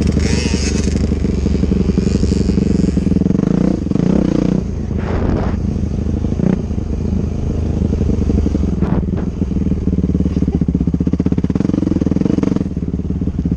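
Dirt bike engine running steadily, its revs shifting down and back up about four to five seconds in.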